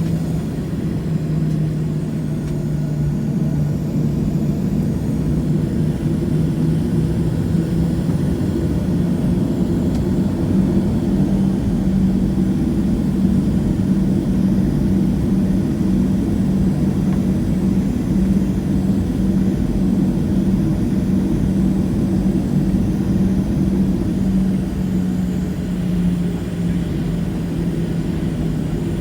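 Cabin noise of a Boeing 737-700's jet engines running at low power, a steady low hum over a rushing noise. The hum's pitch steps up a little about ten seconds in and then holds.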